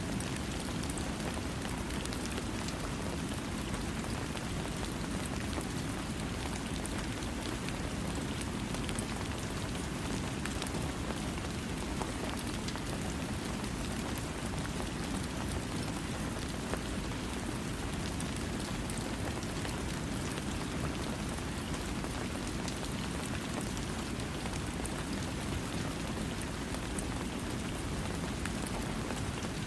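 Steady rainfall, a continuous hiss of rain with scattered raindrop ticks and no thunder.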